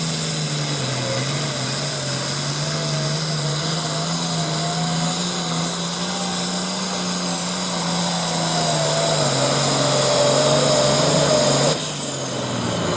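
Competition pulling vehicle's engine running at full throttle while it drags the weight sled down the track, with a high-pitched whine on top. It grows slowly louder, then cuts off abruptly near the end as the throttle is shut.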